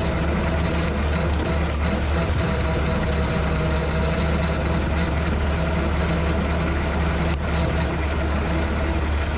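Tractor engine running steadily while driving a bush hog rotary cutter, a constant deep drone. A single sharp tick about seven seconds in.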